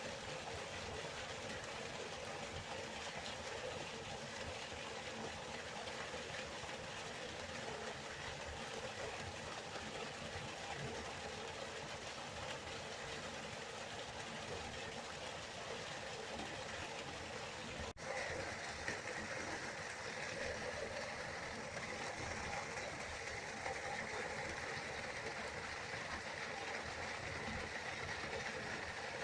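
River water flowing, a steady rushing and splashing. About two-thirds of the way through there is a brief dropout, after which the rush sounds brighter and hissier.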